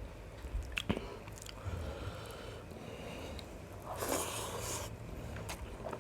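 A person chewing a mouthful of biryani close to the microphone, with wet mouth clicks and smacks. There is a short breathy rush about four seconds in.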